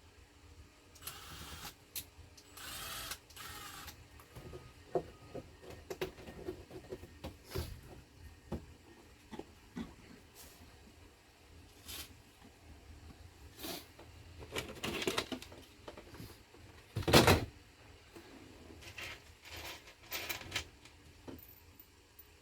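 Hands working on dashboard parts: scattered clicks and light knocks with a few stretches of rustling, and one sharper knock about seventeen seconds in.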